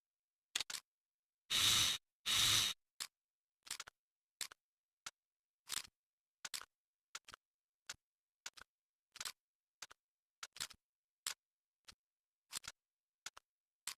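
Clicks and knocks of FN SCAR L rifle parts being handled, spaced about a second apart, with two louder half-second scraping sounds about two seconds in.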